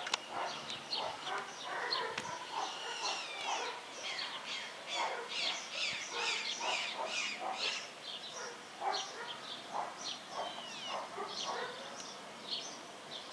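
Birds chirping and calling, many short overlapping calls with some quick falling whistles.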